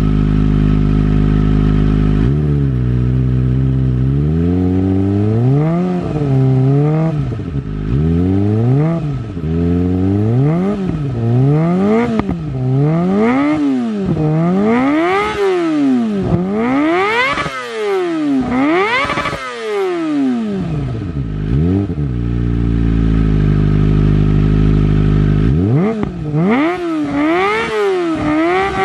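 Kawasaki ZX25R's inline-four engine through an Akrapovic carbon long silencer, the bike standing still: idling steadily, then revved in a long run of quick throttle blips that rise and fall, reaching higher in the middle. It drops back to a steady idle for a few seconds, then is blipped again near the end.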